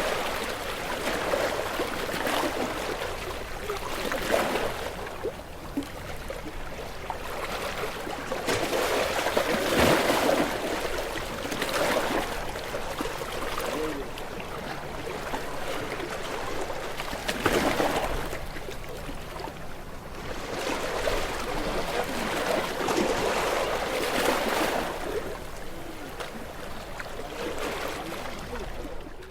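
Small waves breaking and washing up on a shore, swelling and easing every few seconds.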